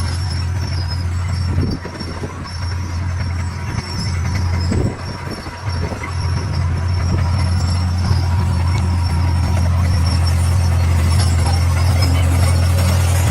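D41 bulldozer's diesel engine running steadily with a strong low drone while it works the stone, getting a little louder about halfway through.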